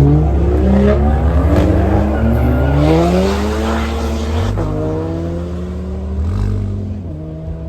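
A car accelerating hard, its engine note climbing and then dropping sharply at an upshift about four and a half seconds in, then climbing again with another shift near the end.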